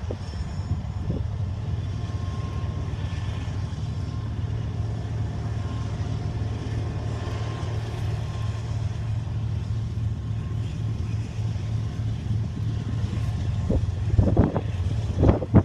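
BNSF grain train passing: a steady low rumble of the freight train rolling by, with a few louder short surges of noise near the end.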